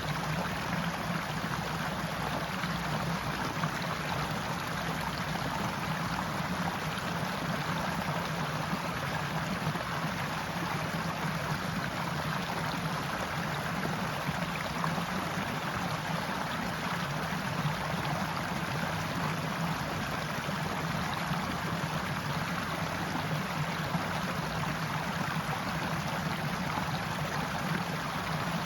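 Forest stream flowing and rushing steadily over rocks, a constant even wash of water.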